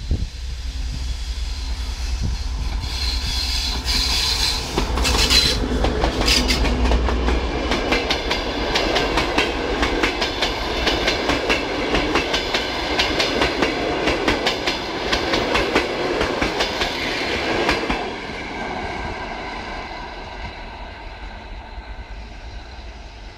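TEP70 diesel locomotive passing close with its engine running as a deep, steady hum, followed by its passenger coaches rolling by with a dense clickety-clack of wheels over rail joints. The clatter stops suddenly about 18 seconds in as the last coach goes by, and the train fades away.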